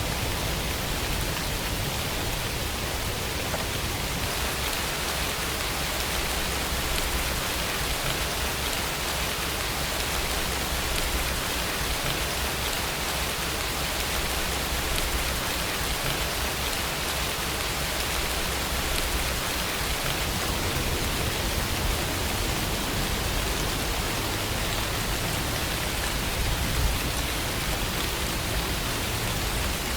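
Steady rainfall: an even, unbroken hiss of rain with a low rumble underneath.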